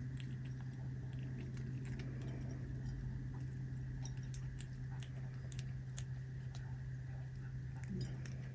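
A cat chewing and crunching dried capelin, with scattered small crunches and clicks, over a steady low hum.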